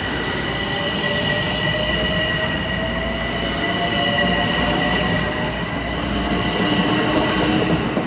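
Train moving along the track: a steady low rumble with a continuous high-pitched wheel squeal over it.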